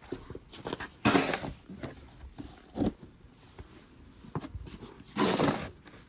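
Snow shovel scraping and scooping through heavy snow: two loud rasping strokes, about a second in and near the end, with a shorter one in between and small crunches and knocks.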